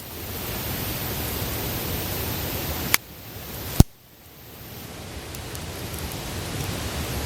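Wood fire burning: a steady hiss with faint crackles. Two sharp clicks come about three and four seconds in, after which the sound drops away and slowly swells back up.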